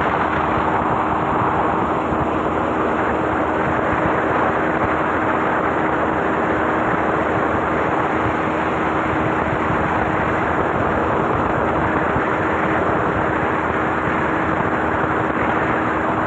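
Speedboat engine running steadily under way, one held even hum over a loud, constant rush of water and wind.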